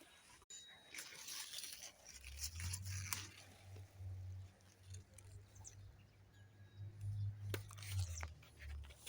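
Eggplants and peppers being picked by hand: crackling leaves and sharp snapping, tearing sounds of stems breaking, scattered irregularly, over a low rumble that starts about two seconds in.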